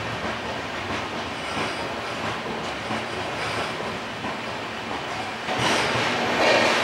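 Indian Railways superfast express train running through a station at speed, heard from on board: a steady rumble of wheels on rail with faint, regular clicks over the rail joints. About five and a half seconds in it grows louder and brighter as the train runs under the roofed part of the platform.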